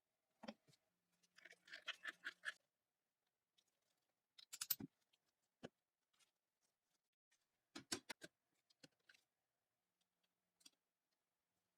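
Faint, scattered clicks and taps of small parts being handled at a workbench, with a quick rattle about one to two and a half seconds in and sharper clicks near the middle and again later.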